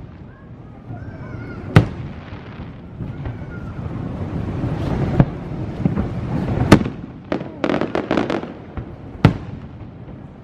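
Fireworks bursting in the sky: four sharp bangs a second or more apart, with a quick run of several pops a little past the middle, over a low rumble of the display.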